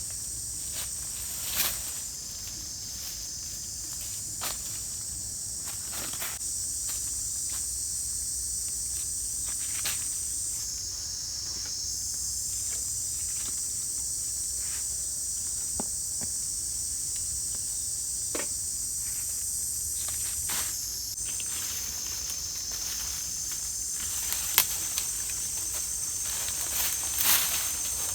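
Steady, high-pitched chorus of forest insects. Its pitch steps down about ten seconds in and shifts again about two-thirds of the way through. Scattered short clicks and rustles sound over it, the sharpest a few seconds before the end.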